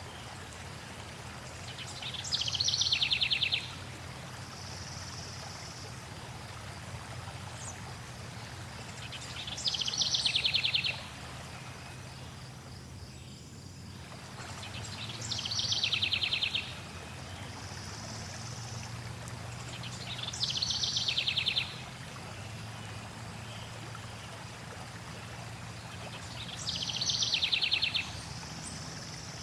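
A songbird repeating the same short, fast, downward-sliding trill five times, about every six seconds, over steady flowing water.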